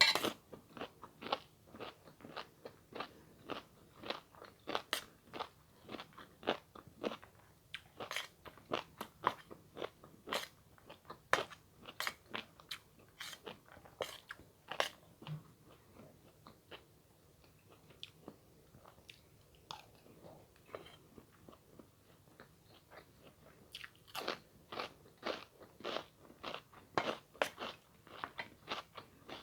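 Close-miked eating: crunchy bites and chewing in a quick, steady run, thinning out in the middle and picking up again near the end.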